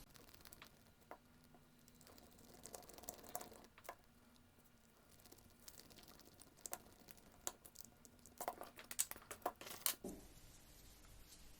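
Faint clicks and scraping of small screws being driven into the plastic differential housing of a 1/16 RC car with a screwdriver, with a cluster of sharper clicks about eight and a half seconds in.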